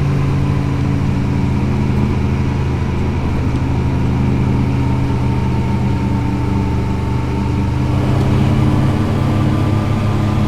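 Motorcycle engine running steadily under way, its note rising slightly about eight seconds in.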